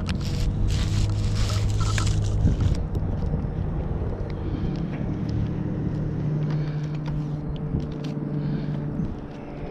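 An engine running steadily, its pitch stepping up about six seconds in, with bursts of hissing noise over it during the first three seconds.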